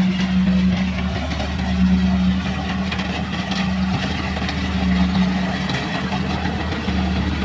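Kubota combine harvester running steadily as it harvests rice, its engine droning at an even pitch.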